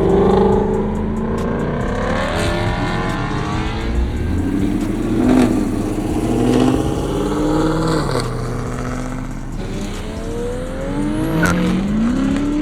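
Muscle-car V8 engines revving hard as the cars pull away. The pitch climbs and falls several times, with a steep climb near the end.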